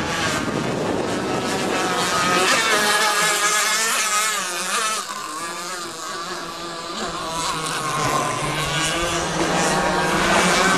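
Twin Zenoah G26 two-stroke gas engines of a large RC speedboat running at speed, the engine note wavering in pitch. It fades a little about five seconds in, then builds back up.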